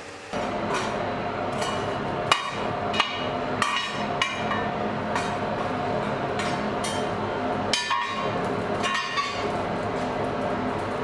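Metal struck on metal at a blacksmith's forge: sharp ringing clinks, about every two-thirds of a second for the first few seconds, then sparser. Beneath them a steady rushing hum switches on abruptly about a third of a second in and keeps running, the forge's air blower feeding the fire.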